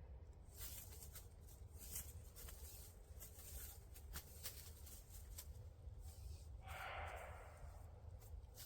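Faint rustling and scattered small clicks of something being handled, with a short soft breathy whoosh about seven seconds in, over a steady low rumble.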